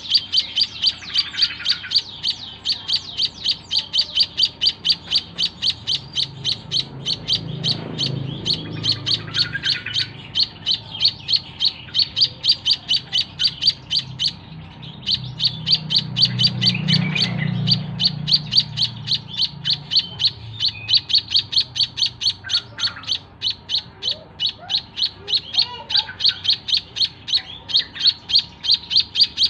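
A white-headed munia (emprit kaji) chirping sharply and evenly, about three chirps a second, with a short pause about halfway through. A low rumble swells twice in the background.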